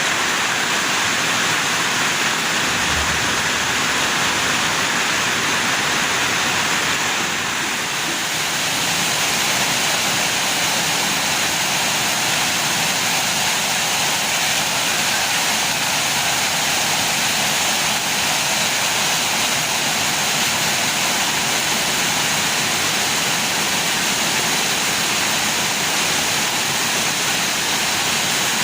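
Heavy rain pouring steadily in strong wind: a loud, even rushing hiss.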